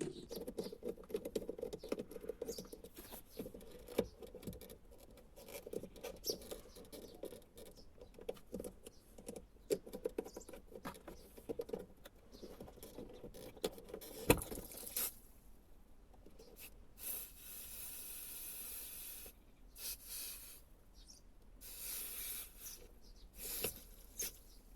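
Hand tools working loose the fuel hose on a BMW E39 in-tank fuel pump: many light metal clicks and ticks for about fifteen seconds, with one sharp click about fourteen seconds in. Short hissy rustling bursts follow near the end.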